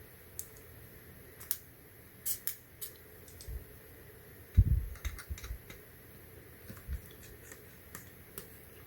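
Scattered light clicks and taps of a small screwdriver and tiny screws being handled on a laptop's opened case, with one louder dull knock about halfway through.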